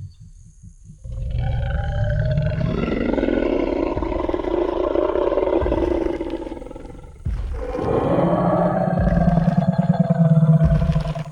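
Tyrannosaurus rex roar sound effect: two long, deep roars, the first lasting about six seconds and the second starting abruptly about seven seconds in.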